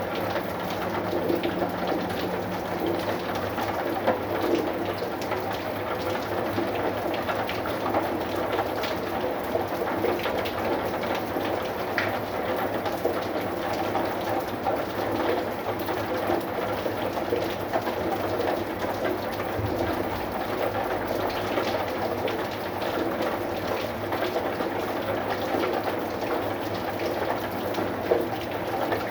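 Steady rain falling, with many small separate drop hits over an even wash, and a faint low steady hum underneath.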